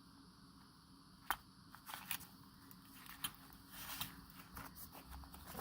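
Small craft pieces being handled on a work table: a sharp click about a second in, then scattered light rustles and scrapes.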